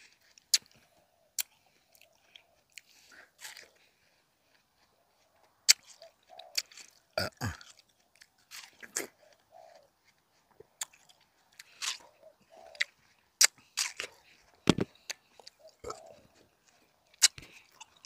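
Close-up mouth sounds of someone chewing and biting juicy watermelon: scattered wet smacks and clicks, with two deeper thumps, about seven and fifteen seconds in.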